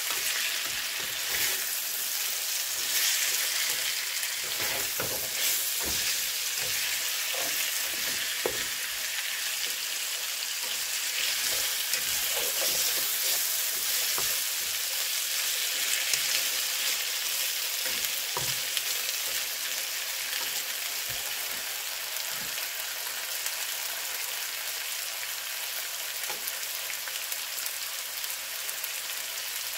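Sliced potatoes, green peppers and onions sizzling as they fry in a nonstick skillet, with a plastic spatula scraping and knocking against the pan as they are stirred. The stirring stops near the end, leaving a steady sizzle.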